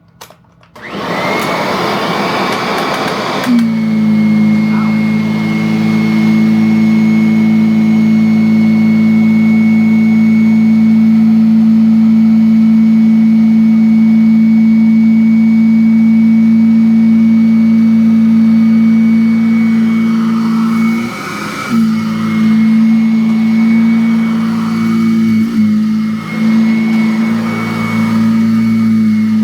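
Kirby Avalir 2 upright vacuum switched on: the motor spins up with a rush of air, then settles about three seconds in into a steady loud drone with a high whine as the freshly belted brushroll agitates. The pitch dips briefly a couple of times near the end.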